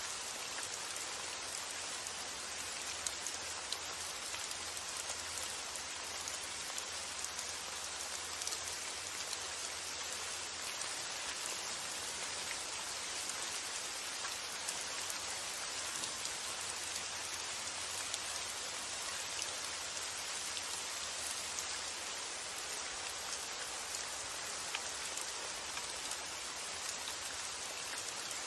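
Steady rain falling: a dense, even hiss with scattered single drops ticking through it, over a faint low rumble of wind.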